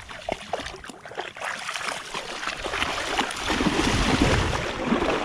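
Wind on the microphone over surf washing on the shore, growing louder from about three seconds in.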